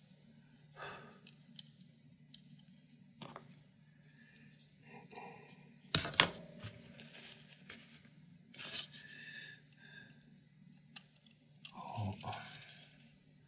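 Small fan parts and sealed bearings being handled and fitted by hand: scattered light clicks, two sharp clicks about six seconds in, and scraping and rustling, over a steady low hum.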